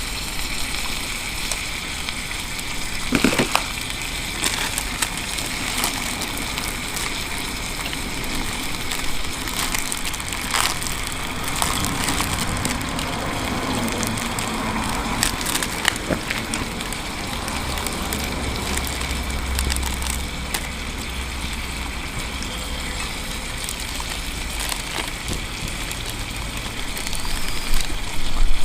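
Wood fire crackling in a campfire stand: scattered sharp pops over a steady watery hiss.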